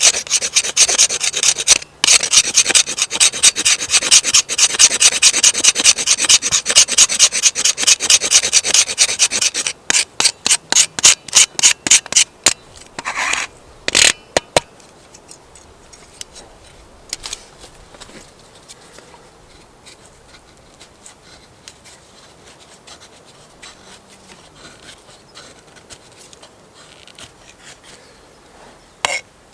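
Rapid, even scraping strokes on wood, like a blade scraping fatwood, running for about ten seconds. The strokes then slow to a few separate ones and stop, leaving faint scattered small sounds.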